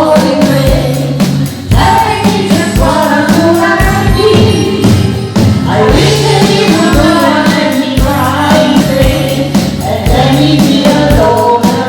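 Music: a song with singing over a steady drum beat and bass.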